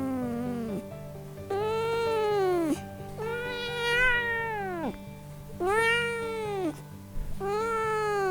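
Domestic cat meowing repeatedly: about four separate drawn-out meows, each rising and then falling in pitch, with the tail of another at the start. Background music plays underneath.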